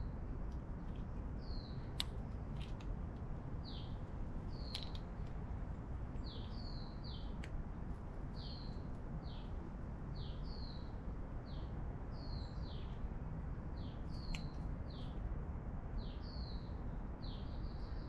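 A bird calling over and over, short falling chirps about once a second, over a steady low background rumble, with a few sharp clicks.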